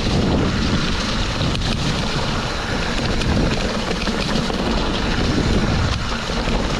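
Steady wind rush on a mountain bike rider's action-camera microphone while riding a dirt forest trail, with faint clicks from the bike rattling over the ground.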